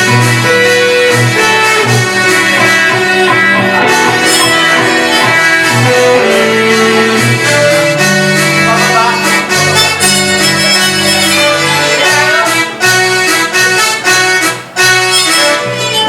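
A church worship band playing a song at rehearsal: held chords over a moving bass line, with drum hits that come more often near the end.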